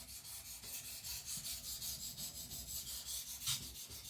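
Carbon-steel (75Cr1) knife blade stroked back and forth on a whetstone: an even, rasping scrape repeated several times a second, with one stronger stroke about three and a half seconds in.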